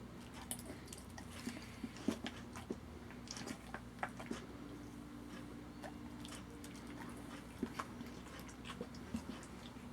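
A dog chewing food, with irregular small clicks and crunches over a faint steady hum.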